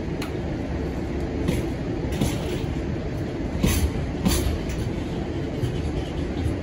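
Container flat wagons of a JR Freight train rolling past: a steady low rumble with a few sharp clanks from the wheels at uneven gaps.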